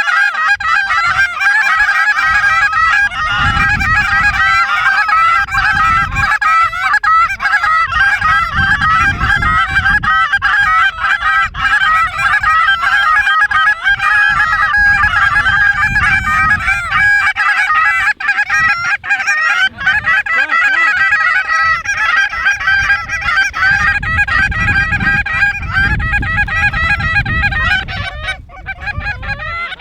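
A large flock of geese honking continuously, many calls overlapping at once. Gusts of wind rumble on the microphone at times.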